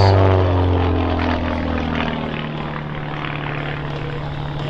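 Pitts S-1S Special aerobatic biplane's piston engine and propeller droning, the pitch sliding down and the sound fading over the first two seconds, then settling into a steady, quieter drone.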